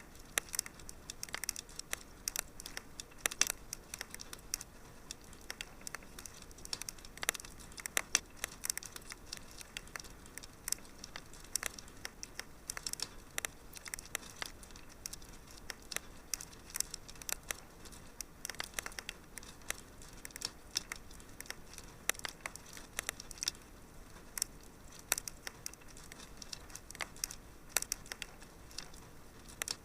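Wood fire crackling in a fireplace: irregular sharp pops and snaps, several a second at times, over a faint steady hiss.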